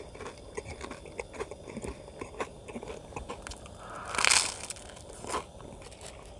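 A person chewing crunchy food close to the microphone: a run of small, irregular crunches. A brief, louder hiss comes a little after four seconds in.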